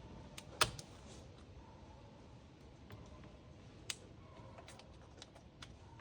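A few sharp plastic clicks and light taps, the loudest about half a second in and another near four seconds, from an engine sensor connector and its locking tab being worked loose by hand.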